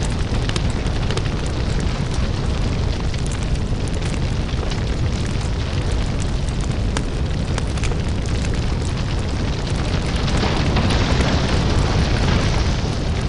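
Lava fire ambience: a constant deep rumble under dense crackling and popping, with a hissing surge about ten seconds in that eases off near the end.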